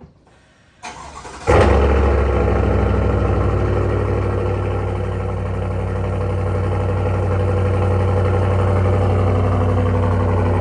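Chevy Silverado's 6.2-litre V8 cold-starting through a Borla S-Type cat-back exhaust. The starter cranks briefly about a second in, the engine catches with a loud flare, then settles into a steady idle.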